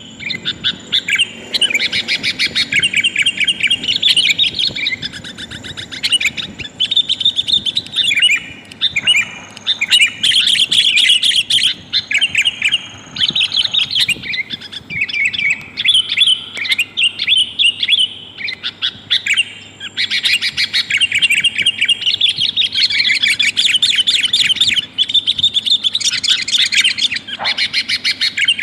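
Sooty-headed bulbul (kutilang) calling in fast, chattering runs of bright notes, nearly continuous with a few brief pauses. This is a lure call played to draw in wild birds.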